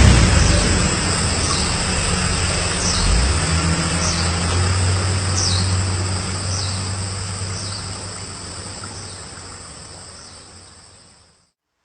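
A low vehicle-engine hum that slowly fades out, under a steady high insect drone and a short falling chirp repeated about once a second. The sound cuts off abruptly near the end.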